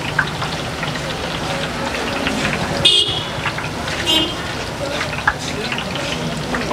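Battered cauliflower bondas deep-frying in a large pot of hot oil, a steady sizzle. Short vehicle horn toots sound about three seconds in and again a second later.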